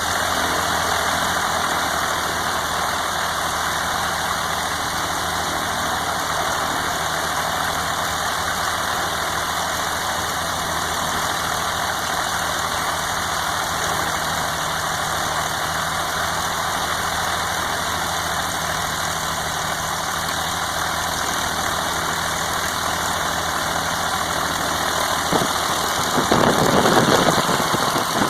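Continental GO-300 geared flat-six aircraft engine and propeller running steadily just after start-up, briefly louder near the end.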